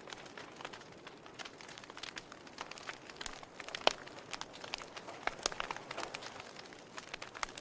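Wood fire burning in a fireplace, crackling with irregular sharp pops and snaps over a faint steady hiss; the loudest pop comes about four seconds in.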